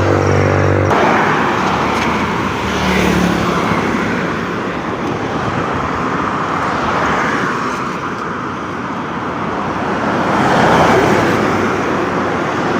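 Road traffic on a wet road: tyre hiss from passing vehicles swelling and fading several times. A steady engine hum cuts off just under a second in.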